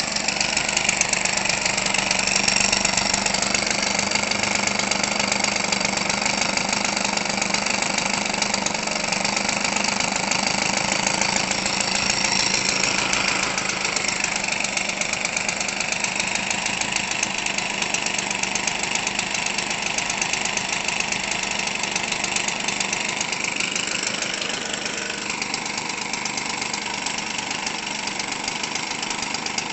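Weed Eater Featherlite 25cc two-stroke trimmer engine, converted for RC airplanes, running steadily and turning an 18x6 propeller through its stock muffler.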